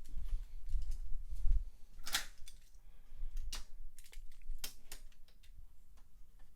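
Die-cast toy cars and the plastic starting gate of a toy race track being handled: low knocks and bumps at first, then several sharp separate clicks and taps, the loudest about two seconds in.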